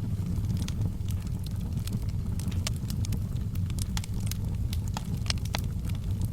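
Wood logs burning in a fireplace: a steady low rumble of flames with frequent, irregular sharp crackles and pops of burning wood.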